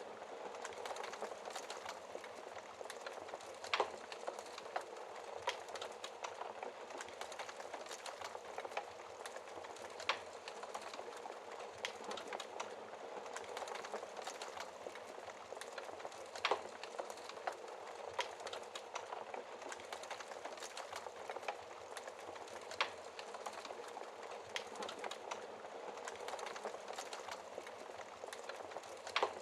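Wood fire crackling in a fireplace: a steady soft hiss dotted with small crackles, and a sharper, louder pop about every six seconds.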